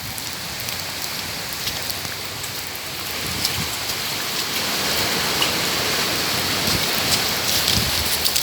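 Rain falling steadily, with drops pattering on surfaces; it grows a little louder about three seconds in.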